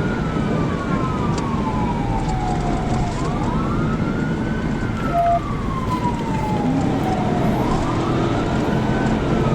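Police car siren wailing in a slow rise and fall, about a four-second cycle, over steady road and engine noise of a cruiser in pursuit.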